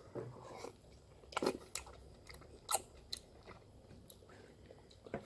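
A person biting into and chewing a peeled fresh fruit: faint wet mouth clicks and smacks, a little louder about one and a half seconds in and again near three seconds.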